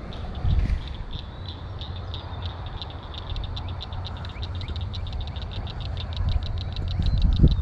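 A frog calling in a long series of short, sharp clicks that speed up from about three a second to several a second, over wind buffeting the microphone.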